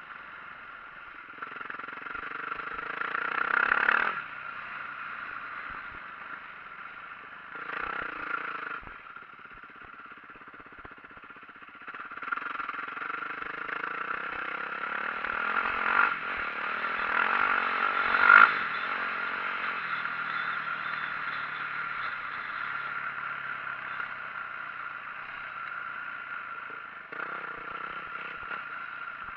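2004 Yamaha YZ450F's single-cylinder four-stroke engine being ridden hard, the revs rising in several throttle bursts with a long climb in the middle and easing off in between. A few sharp knocks and clatter, the loudest near the top of the long climb.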